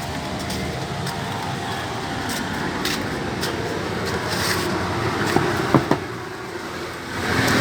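Steady rumble of passing road traffic, with a few light clicks and taps.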